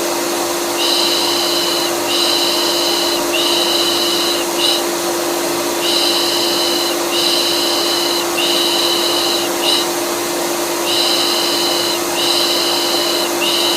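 Vacuum cleaner motor running steadily, overlaid with a rhythmic 'shh' shushing in sets of three long shushes and one short, each set repeating about every five seconds. It is a looped soothing noise for calming a colicky baby.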